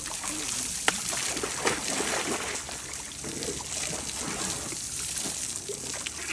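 Steady trickling and splashing of water, with a sharp knock about a second in and another just under two seconds in.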